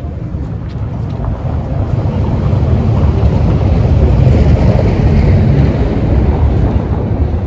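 A vehicle passing close by in street traffic: a low rumble that swells to a peak about four to five seconds in and then eases off.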